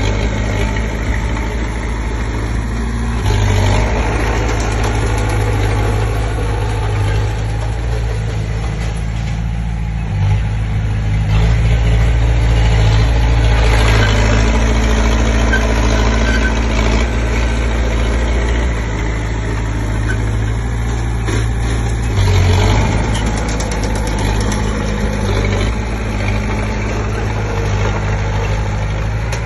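Komatsu D20P crawler bulldozer's diesel engine running steadily while working, its low note rising and falling with the load. It is loudest for several seconds in the middle.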